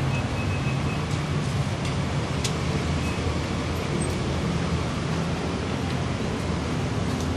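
Datsun GO+ three-cylinder petrol engine running steadily during an engine decarbonizing (combustion-chamber cleaning) treatment.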